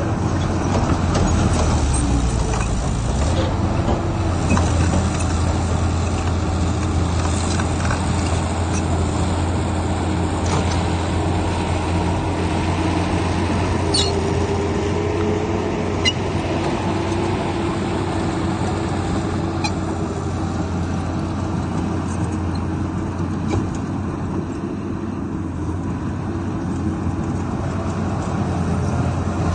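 Heavy diesel earthmoving machinery running steadily under load, with a few short, sharp metallic clanks about halfway through.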